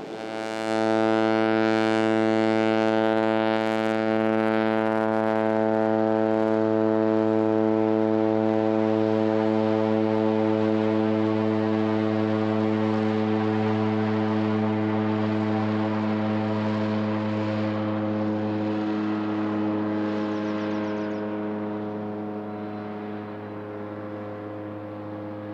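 A single steady low drone held at one pitch, rich in overtones, coming in about half a second in and slowly fading over the last few seconds.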